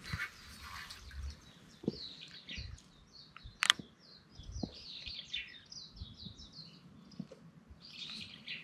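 Small birds chirping again and again. Near the start a brief hiss as a baitcasting rod is cast, and a few sharp clicks, the loudest about three and a half seconds in.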